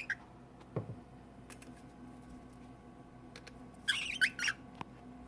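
Cockatiels chirping: a short chirp right at the start and a quick run of three or four chirps about four seconds in, with scattered light clicks and a soft low thud about a second in.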